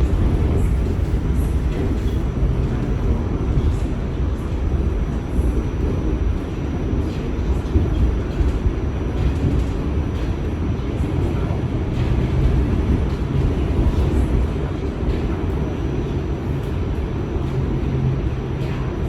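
New York City subway train running between stations: a steady, loud low rumble of wheels on rail and car motors, with faint clicks scattered through it.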